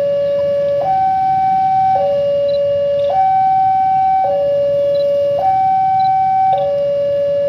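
Two-tone electronic warning siren alternating steadily between a higher and a lower note, each note held about a second.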